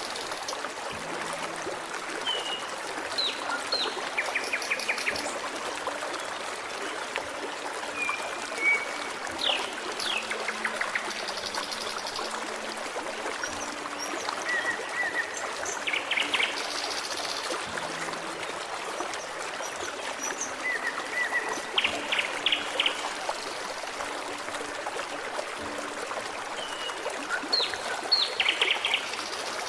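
Forest stream trickling steadily, with songbirds calling over it: short falling whistles and quick trills every few seconds.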